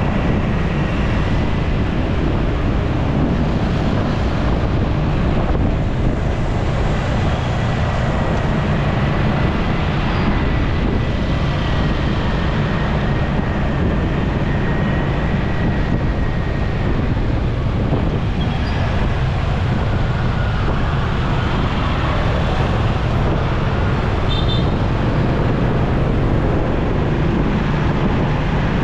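Motorcycle riding through busy road traffic: a steady rumble of engine, road and traffic noise.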